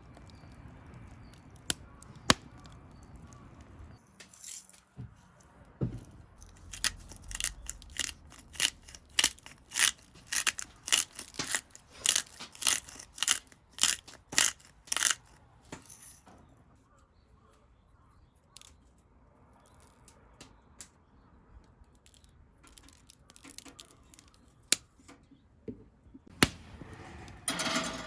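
A run of sharp taps or knocks, about one to two a second, for some ten seconds, with a few single knocks before and after.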